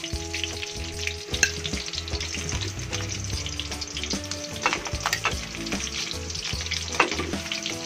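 Beef slices sizzling in hot oil in a metal wok, the burner just switched off, as they are lifted out with metal tongs; a few sharp clicks of the tongs against the pan and plate.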